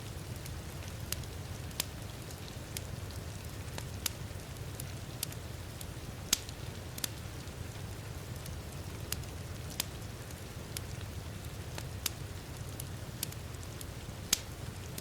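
Wood fire crackling, with sharp irregular pops (the loudest about six seconds in and near the end), over a steady hiss and low rumble of heavy rain.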